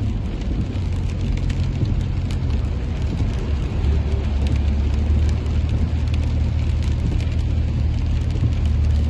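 Rain falling, a dense patter of drops, over a steady low hum that grows louder about four seconds in.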